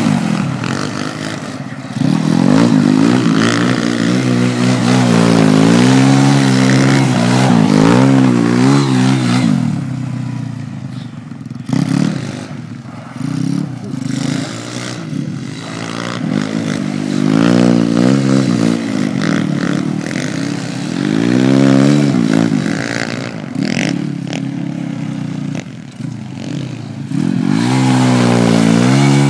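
Pit bike's small single-cylinder engine revving up and down over and over as it is ridden, its pitch rising and falling in repeated surges with short lulls between.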